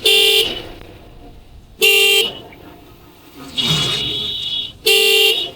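Vehicle horns honking in road traffic: three identical short toots, about two and three seconds apart, with a longer horn of a different pitch sounding between the second and third.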